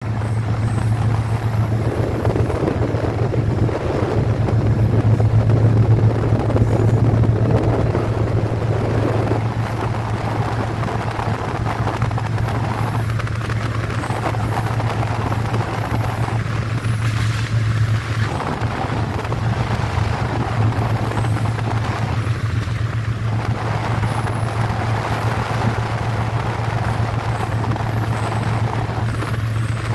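Passenger train running along the track, heard from on board: a steady low drone over a constant rumble of wheels on rails, a little louder in the first several seconds.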